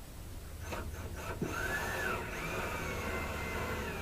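Ryobi cordless drill driving a screw into wood: the motor starts about a second in and runs with a whine that rises and then slowly sags in pitch as the screw bites.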